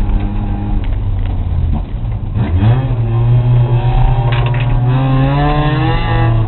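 Racing car engine running hard. Its pitch dips about two seconds in, then climbs again as the car accelerates, rising further near the end.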